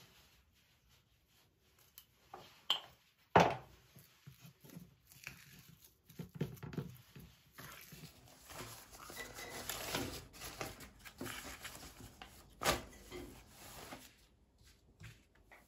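Household handling sounds: scattered sharp knocks of objects being set down, the loudest about three seconds in, and a stretch of rustling and crinkling in the middle.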